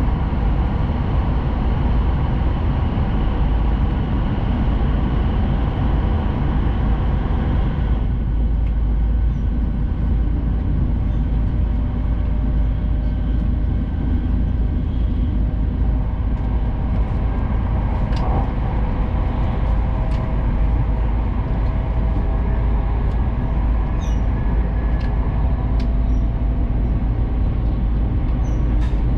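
Steady rumble and hiss of a Hayabusa shinkansen running at speed, heard inside the passenger cabin. About eight seconds in the higher hiss drops away, leaving a lower rumble with faint steady whining tones, and there are a few light clicks near the end.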